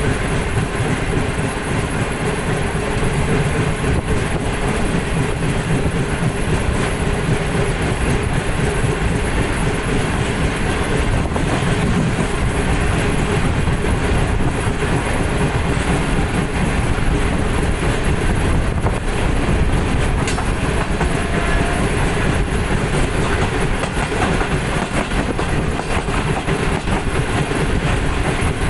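Running noise of a Pakistan Railways passenger train heard from beside a moving coach: wheels running on the rails at a steady speed, a dense, even rumble with no change in loudness.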